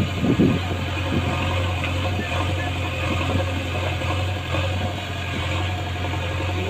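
Diesel engine running steadily with a low, even hum. There are a couple of dull thuds in the first half second.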